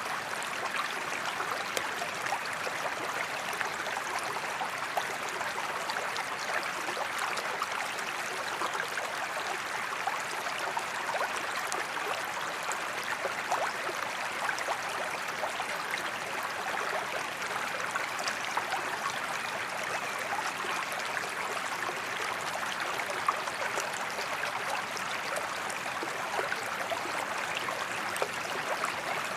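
Waterfall water running and splashing steadily, an even rushing sound with small splashes and droplets scattered through it.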